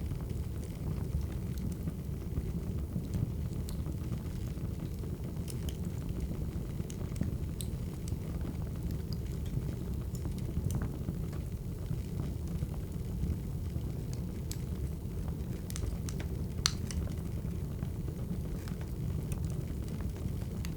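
Wood fire crackling: a steady low rumble with scattered sharp pops, the loudest about 17 seconds in.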